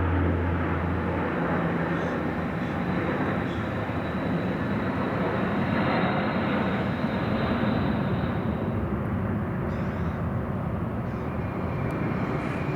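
Low-flying military transport or airliner passing overhead on its landing approach: a steady engine rumble with a thin high whine through the middle seconds.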